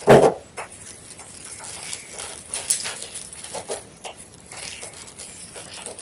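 White gym chalk crunching and crumbling in scattered short cracks, with one louder crunch right at the start.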